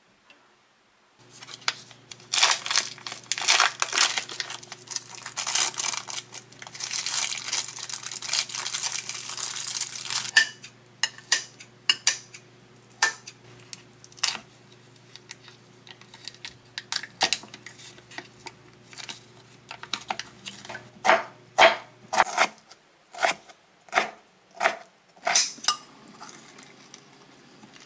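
Kitchen food-preparation sounds: about nine seconds of rustling and crinkling, then scattered sharp taps and knocks of utensils and dishes, more regular near the end. A steady low hum runs under the first twenty seconds or so, then stops.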